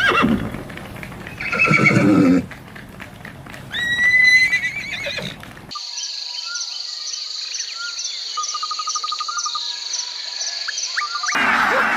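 Horse whinnying, several trembling, wavering neighs over the first five seconds or so. It is followed by a different recording: a steady high-pitched whine with regular ticks, about two or three a second.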